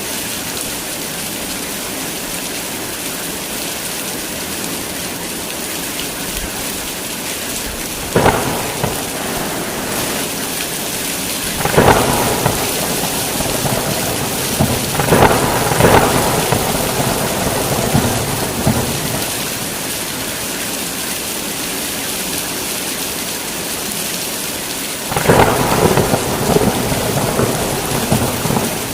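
Heavy rain falling steadily, broken by several sharp, crackling thunderclaps with rumbling tails, at about 8, 12, 15 and 25 seconds in.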